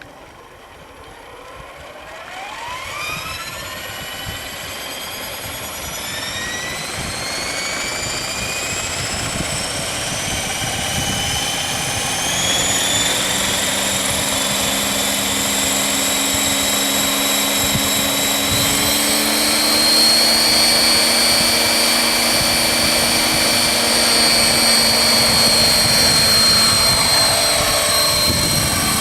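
Electric 600-class RC helicopter (Align T-Rex 600 ESP) spooling up: the motor and gear whine climbs steadily in pitch and loudness over the first dozen seconds, then holds a steady high whine with rotor noise once the rotor is up to speed.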